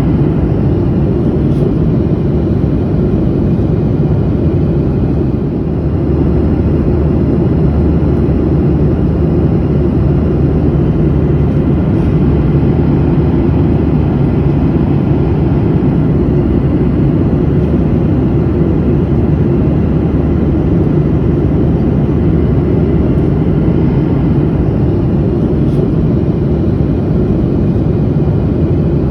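Passenger airplane in flight heard from inside the cabin: a steady, deep rumble of engines and rushing air that stays even throughout.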